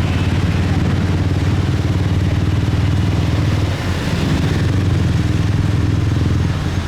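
Motorcycle engine running steadily under way in dense motorbike traffic, with a steady low engine hum under a haze of road and traffic noise.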